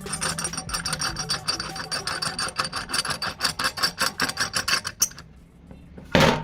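Rasping, rubbing strokes of a tool worked back and forth over a workpiece, in a quick, even rhythm that stops about five seconds in. A short, loud noise follows near the end.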